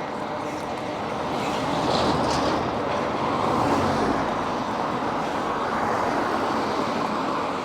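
Steady rushing road and traffic noise, swelling slightly a couple of times.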